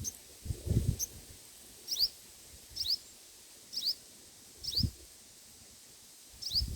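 A small bird's short, high chirps, repeated about once a second, each a quick double note falling in pitch. A couple of low, dull bumps come in between.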